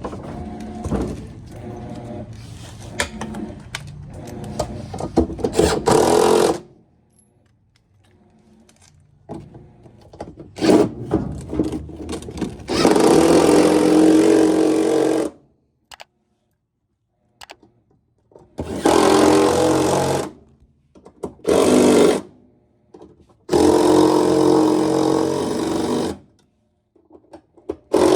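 Cordless power driver running bolts into a washer's transmission gear case, in several bursts of a second to a few seconds each, with a rattling whirr.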